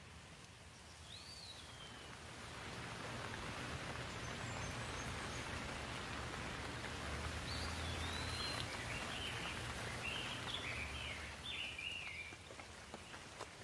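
Outdoor nature ambience: a rushing noise that swells up over the first few seconds and fades near the end, with a bird calling once near the start and singing a run of short chirping notes in the second half.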